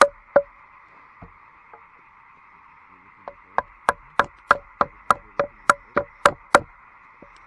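A run of sharp knocks, about three a second, stopping and starting again, over a steady chorus of frogs.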